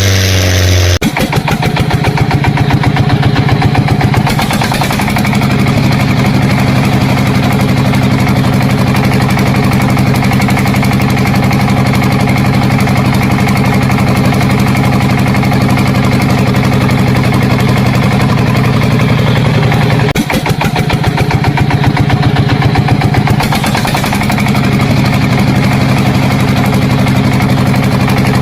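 An engine running steadily with a fast, even pulse, its pitch shifting slightly a few times, with a brief dip about two-thirds of the way through.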